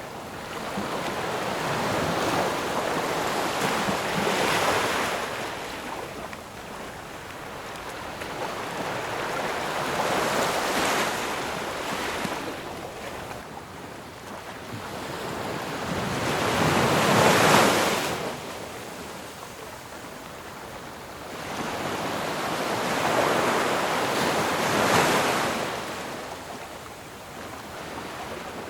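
Sea waves breaking on a shore: a rushing hiss that swells and ebbs about every six to seven seconds, four waves in all, the third the loudest.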